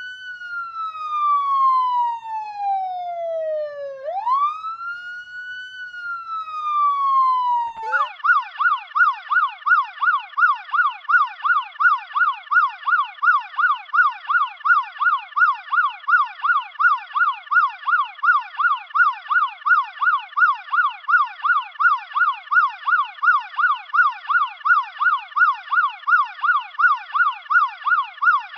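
Police car electronic siren sounding a wail, each slow cycle rising quickly and falling over about four seconds, then switching abruptly about eight seconds in to a fast yelp of about three sweeps a second.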